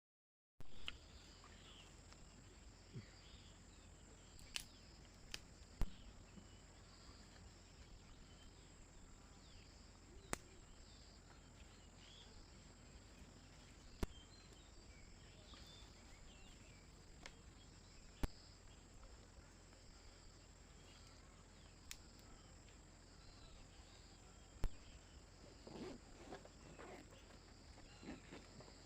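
Faint night-forest ambience with a steady high insect chirring over a low background hum. A few sharp isolated clicks come through, and near the end there are some soft scuffs.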